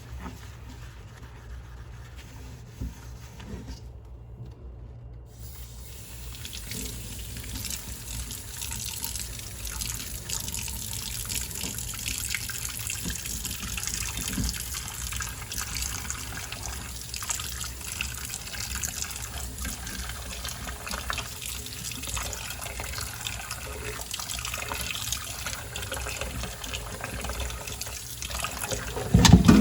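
Water running from a kitchen tap into a sink during hand dishwashing, coming on about six seconds in and then running steadily. A single loud knock comes near the end.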